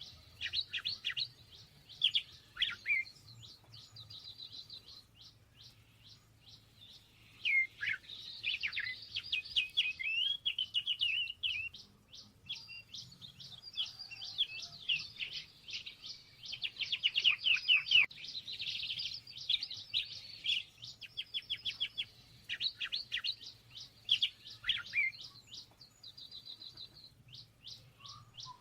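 Small songbirds chirping and singing, with rapid runs of high chirps and trills that overlap as several birds call at once.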